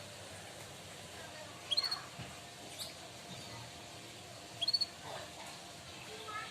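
Canary giving short, high, upward-sliding chirps in two brief clusters, about two seconds in and again near five seconds.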